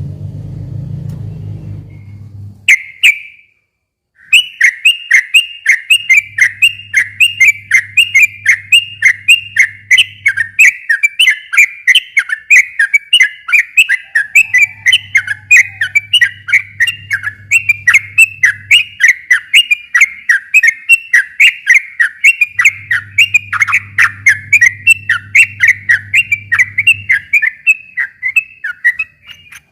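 Yellow-vented bulbul (trucukan) singing a long, unbroken run of quick chattering notes, about three or four a second, starting about four seconds in after a single note. A low rumbling noise comes before the song in the first two seconds.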